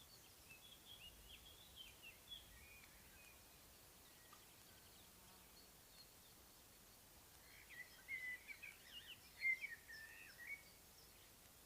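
Songbirds singing: a few faint whistled phrases in the first three seconds, then a louder, busier burst of song from about eight to ten and a half seconds in, over a faint steady hiss.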